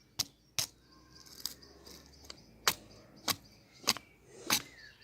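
Campfire of fir branches crackling: a string of about seven sharp pops at uneven intervals.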